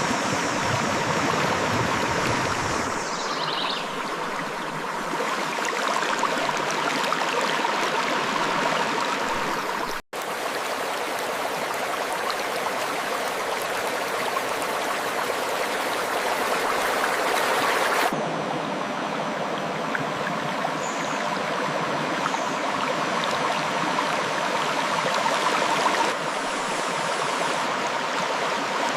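River water flowing over rocks: a steady rushing and splashing, cut by a split-second break about ten seconds in, with the sound shifting abruptly in character a few times.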